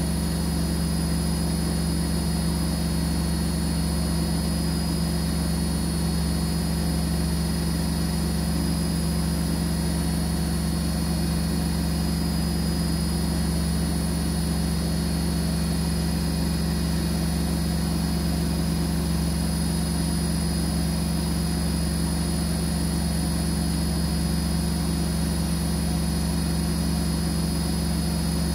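Siemens washing machine spinning at high speed, a steady even hum from the motor and drum with no change in pitch.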